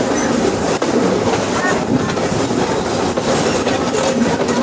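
Mallet 020-020-T articulated steam tank locomotive running, with the steady noise of the moving train heard from aboard.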